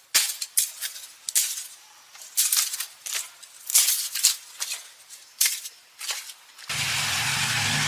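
Irregular sharp crackles and rustles, a few a second. About two-thirds of the way in, they give way abruptly to a steady rushing noise with a low hum underneath.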